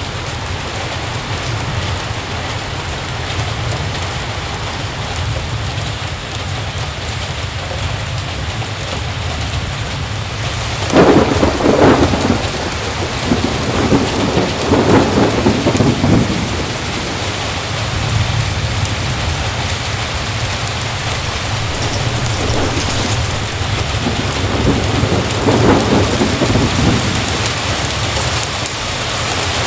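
Heavy, steady rain with thunder rolling in twice: a long peal starting about a third of the way in and another past the middle.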